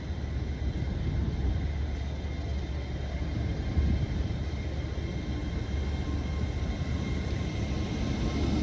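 A train running past on the main line: a steady rumble with a faint, thin high whine over it.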